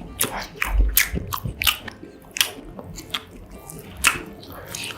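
Close-miked eating of a mozzarella corn dog: biting and chewing, with an irregular run of sharp, crackly mouth sounds, two to four a second.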